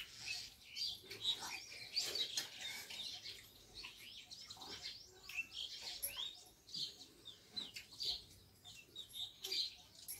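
Small birds chirping in many short, irregular calls.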